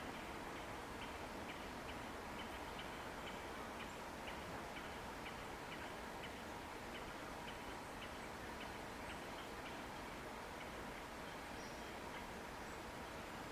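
Short clicking chirps from an insect, irregular at about two to three a second, over a steady rush of river water.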